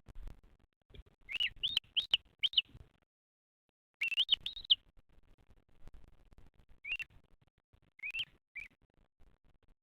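A bird chirping: short chirps that rise and fall in pitch, in quick runs of three or four, with pauses between the runs.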